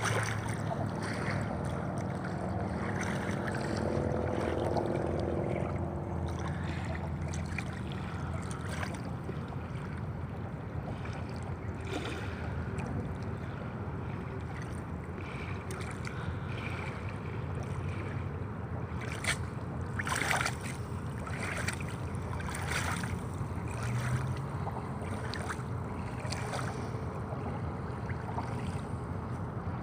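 Steady noise of shallow water lapping, with wind on the microphone, and a few short sharp sounds about twenty seconds in.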